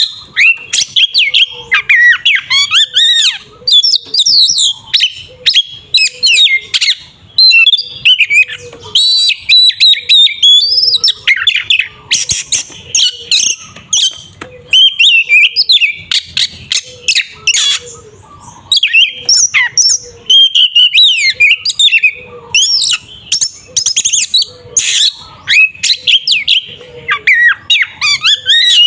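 Oriental magpie-robin (kacer) singing a loud, fast, varied song of whistles, pitch sweeps and sharp chirps in rapid phrases broken by brief pauses: the agitated fighting song that keepers use to provoke other kacers.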